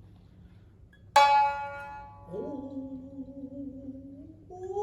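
Shamisen accompaniment in shinnai-bushi: a single sharp plucked note about a second in that rings and fades, then the chanter holds one long sung note that slides up at its start, and a second loud pluck comes at the very end.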